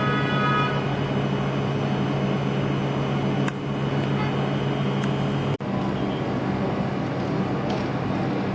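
Steady low engine hum of street traffic, with a few faint clicks and a brief dropout about five and a half seconds in.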